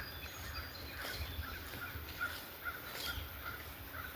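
Footsteps on a trail, a few soft thuds, with birds chirping in short repeated calls in the background.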